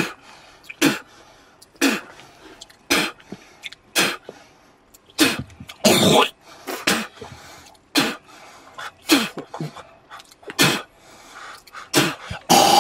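A man spitting again and again, one short sharp spit roughly every second.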